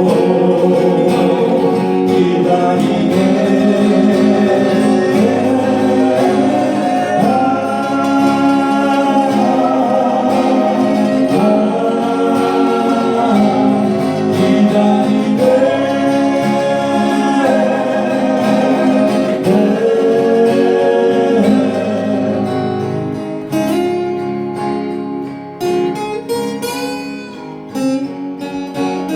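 Acoustic guitar accompanying singing. The singing stops about three quarters of the way through, and the guitar plays on alone, quieter, with plucked notes.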